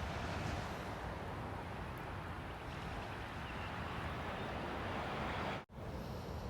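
Wind buffeting the microphone outdoors, a steady rushing noise with low fluttering rumble; the sound cuts out for a split second about a second before the end.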